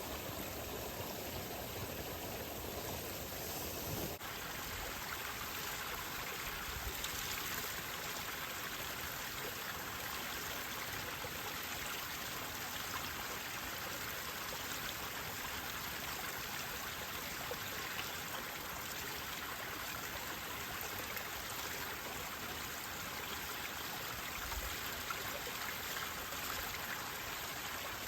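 Campfire burning with a steady hiss and faint scattered crackles.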